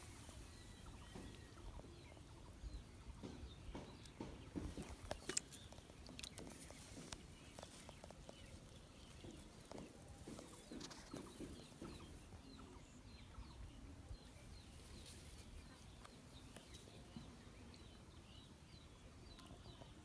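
Faint outdoor ambience of small birds chirping, with scattered light clicks and rustles of handling.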